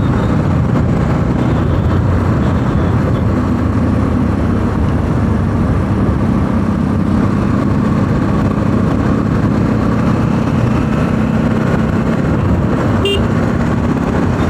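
Bajaj Pulsar NS200's single-cylinder engine running steadily at highway cruising speed, heard from the rider's position, with heavy wind rush over the microphone.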